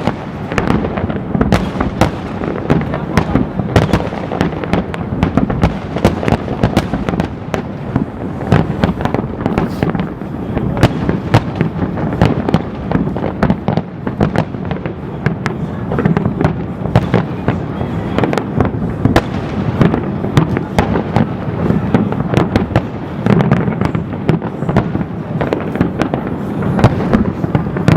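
Aerial fireworks display going off in a dense, continuous barrage: many sharp bangs in quick succession over a steady rumble of bursting shells and crackle.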